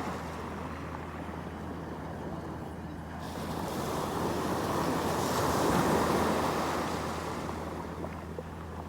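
Ocean waves on the shore: a steady wash of surf, with one wave swelling to a peak about halfway through and then receding.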